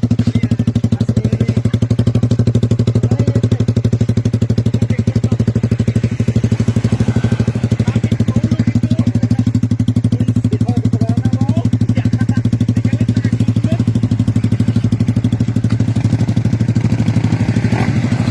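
Suzuki Raider 150's single-cylinder four-stroke engine idling steadily through an aftermarket exhaust pipe, with an even, rapid pulse.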